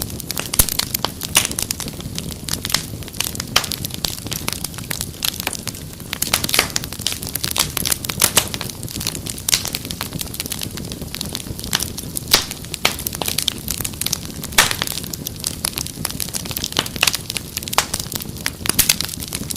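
Wood fire crackling steadily: irregular sharp pops and snaps, several a second, over a low steady rumble of burning.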